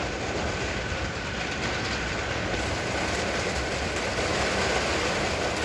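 Steady roar of a severe thunderstorm's heavy rain and strong wind, a continuous rushing rumble that grows slightly louder.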